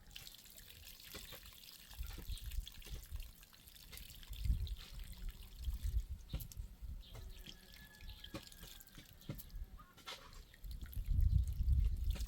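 Water dripping and trickling, with scattered sharp ticks. Loud low rumbling thumps come about four and a half seconds in and again near the end.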